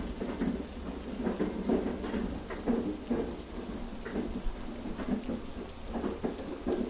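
Steady heavy rain mixed with a train carriage's low rumble and irregular clacks and rattles from the wheels on the track.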